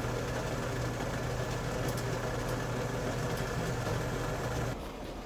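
Steady hum and rushing hiss of a pot of water heating on the stove, just short of the boil, with a few faint ticks.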